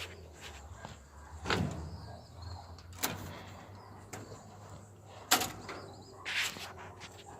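A few sharp knocks and clatters, a second or two apart, with a short scraping rustle near the end.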